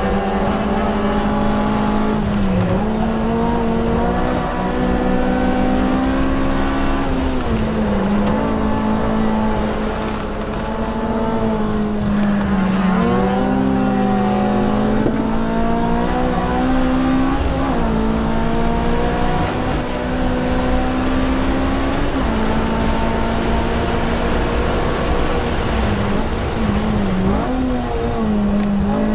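Honda Civic Si's 2.0-litre K20Z3 four-cylinder engine at high revs under hard track driving, heard inside the cabin. Its pitch holds high, dips sharply and climbs back again about six times.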